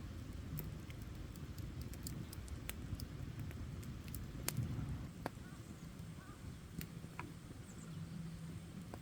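Wood campfire burning: a low steady rush of flames with irregular sharp crackles and pops from the burning wood, one louder pop about halfway.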